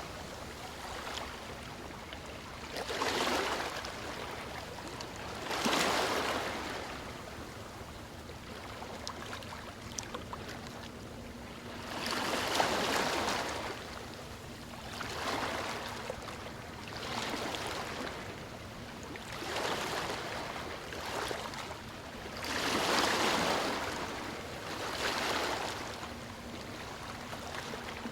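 Gentle ocean waves lapping on a shore, the wash of each wave swelling and fading every few seconds.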